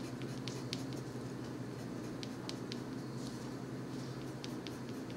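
Colored pencil scratching on paper in short, irregular strokes, over a faint steady low hum.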